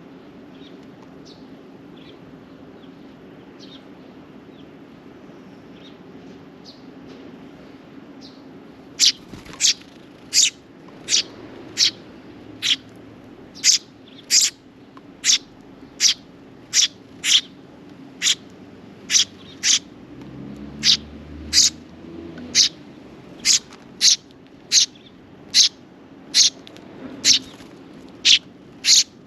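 Sparrow giving loud, sharp single chirps over and over, about one or two a second, starting about nine seconds in, with fainter chirps before that. A steady low hum runs underneath.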